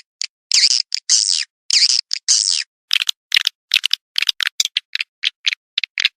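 Swiftlet calls from a swiftlet-house lure track: high chirps separated by clean silence. First come several longer chirps. From about halfway they turn into shorter, quicker chirps at a few a second.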